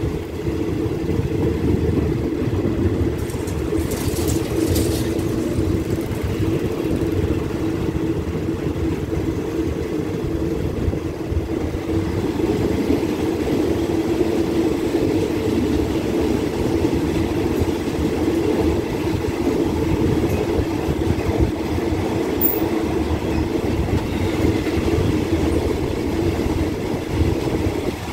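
Express passenger train running on the rails, heard from an open carriage window: a steady rumble.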